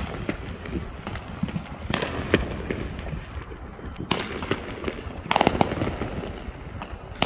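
Fireworks going off: a series of sharp bangs a second or two apart, with smaller crackles between them.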